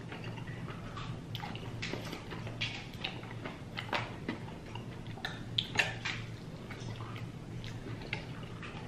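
Eating sounds: wet chewing and mouth smacks, with scattered small clicks, over a faint steady low hum.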